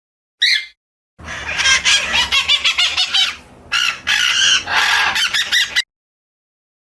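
Bird calls: a single short call, then, about a second in, a dense run of rapid, overlapping calls lasting about four and a half seconds that cuts off abruptly.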